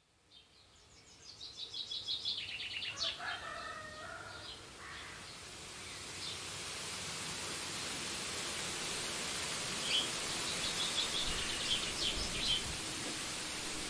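Birds chirping in quick trills, fading in over the first two seconds and coming back in short bursts near the end, over an even hiss of background noise that builds up about midway and then holds steady.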